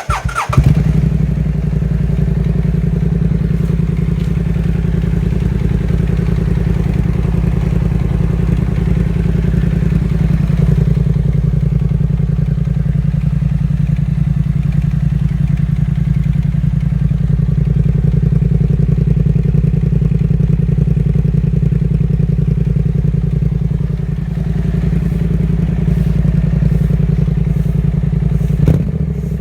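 BMW C650GT scooter's parallel-twin engine starting and then idling steadily through an aftermarket Two Brothers exhaust with the catalytic converter removed. The level rises briefly near the end.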